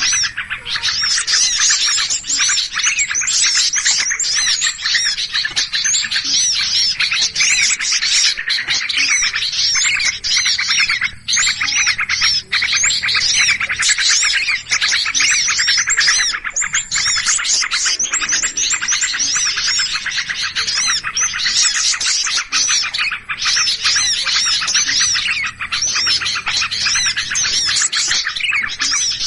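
A bird-lure recording of many small birds calling in agitation ('ribut'): a dense, unbroken mass of rapid high chirps and short whistled glides, with a faint low hum underneath.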